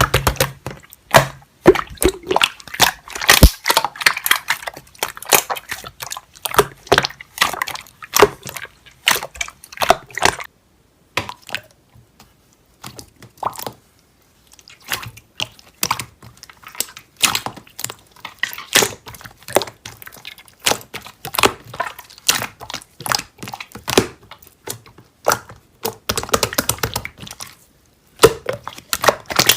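Irregular quick clicks and taps of small objects being handled, with a pause of a few seconds about eleven seconds in.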